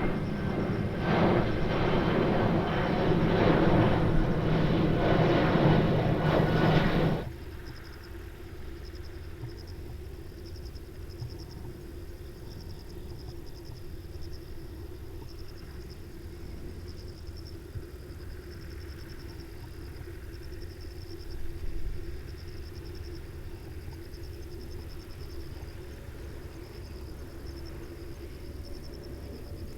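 Boeing 767 airliner's jet engines loud overhead, cutting off abruptly about seven seconds in. After that, quiet outdoor ambience: a low steady rumble and a continuous high, pulsing insect chirr.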